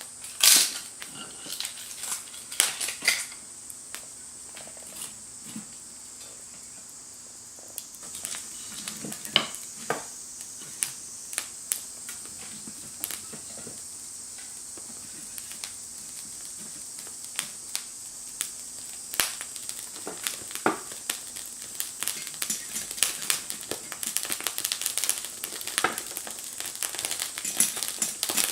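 Small wood fire crackling, with irregular sharp snaps and pops that come more often near the end.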